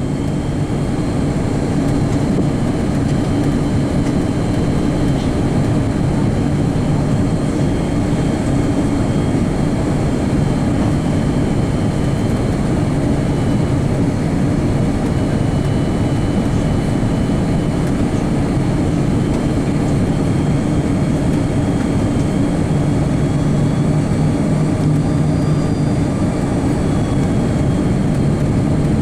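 Steady cabin noise of an Airbus A330-300 in flight inside the passenger cabin: rushing airflow with a low, even hum from its GE CF6-80E1 turbofan engines, unchanging throughout, as on the approach before touchdown.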